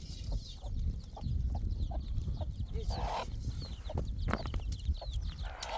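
Chickens clucking, with many short, high chirps scattered through and a brief rustle about three seconds in.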